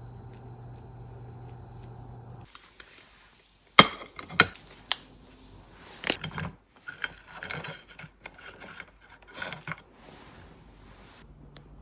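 A steady low hum, then after an abrupt change about two and a half seconds in, a run of sharp clinks, taps and scrapes of kitchen utensils against dishes.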